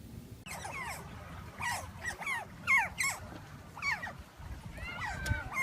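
A dog whining: a run of short, high whimpers that bend in pitch, about two a second.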